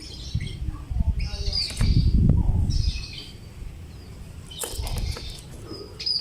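Lovebird chirping in rapid bursts of high, shrill calls with sharp clicky notes. From about one to three seconds in, a louder low rumbling flutter sits under the calls.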